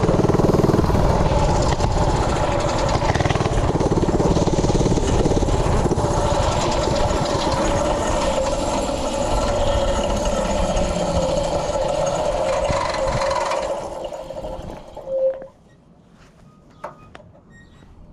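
A Tillotson 212 single-cylinder engine on a Coleman CT100U mini bike running steadily. About fourteen seconds in it falters, gives one last brief surge and dies, starved of fuel as the tank runs dry. A couple of faint clicks follow.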